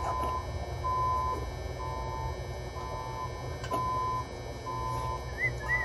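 Electronic beeping: one steady mid-pitched tone, about half a second long, repeating evenly about once a second over a low steady hum. A few short high chirps come near the end.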